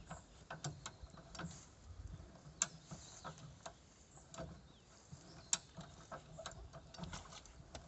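Irregular light clicks and knocks, a dozen or so sharp ones spread unevenly, over a faint low rumble.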